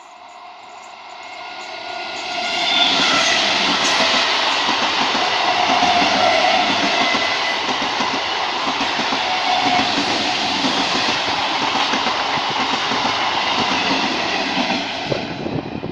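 Electric multiple-unit local train passing close by. It grows louder over the first three seconds with a whine, then gives a loud, steady rush of wheels on rail with clickety-clack for about twelve seconds, and drops away near the end.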